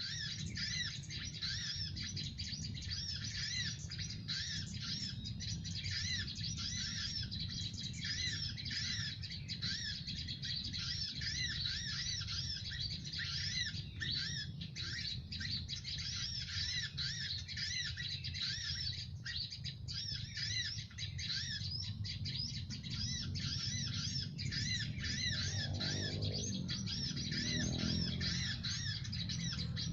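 Birds chirping rapidly and without a break in a dense, repeating run of high calls, over a steady low rumble.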